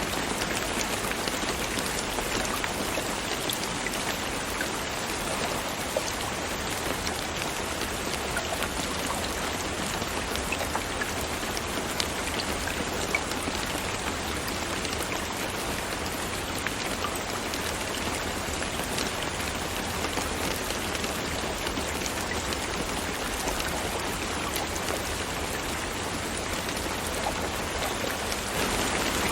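Steady rain falling, with many small drop impacts ticking over an even hiss.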